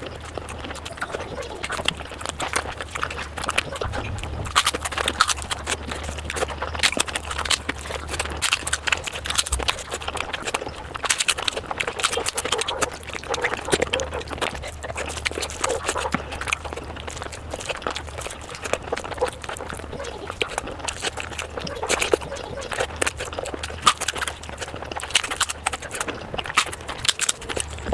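Close-miked eating of mutton curry: a steady run of irregular wet chewing and mouth clicks, over a steady low hum.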